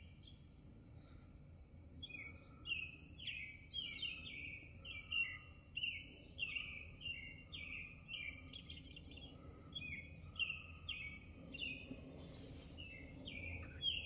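A songbird calling over and over: short chirps, each falling in pitch, about two a second, over a faint steady background rumble.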